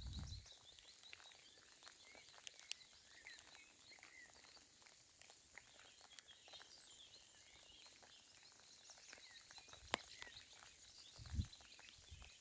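Faint outdoor birdsong: many small, high chirps from several birds, with a few sharp ticks and a brief soft low thump about a second before the end.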